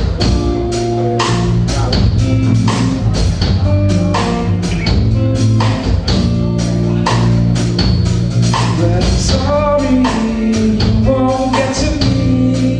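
Live band music: a drum kit keeps a steady beat under bass and guitar.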